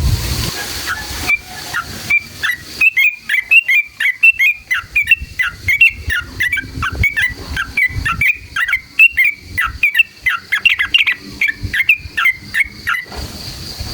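Yellow-vented bulbul (trucukan) singing a long, rapid run of short bubbly chattering notes, the 'ropel panjang' style. A few scattered notes come first, then a fast, unbroken string from about three seconds in until near the end.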